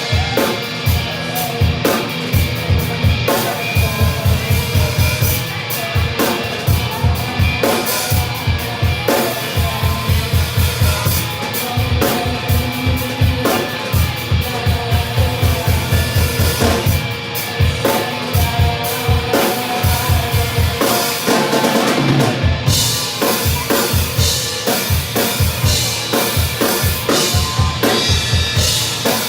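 Drum kit played hard with rapid bass drum strokes, snare hits and cymbals, over recorded band music with sustained pitched tones. The bass drum drops out briefly about two-thirds of the way through, after which crashing cymbals take over the top.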